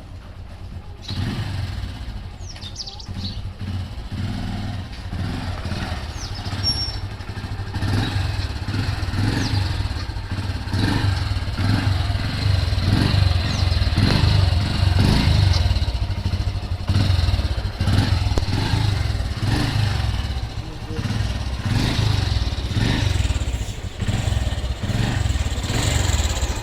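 Motorcycle engine running while being ridden, with a steady low rumble that comes up about a second in.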